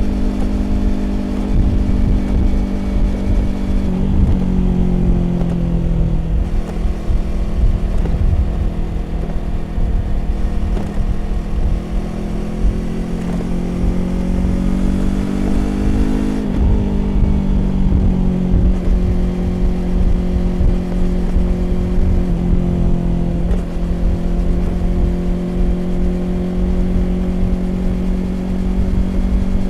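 Yamaha YZF-R25's 250 cc parallel-twin engine running through a Prunus aftermarket exhaust while riding, over wind and road noise. The engine note steps up and down with throttle and gear changes; near the middle it climbs for a few seconds, then drops suddenly, as at an upshift.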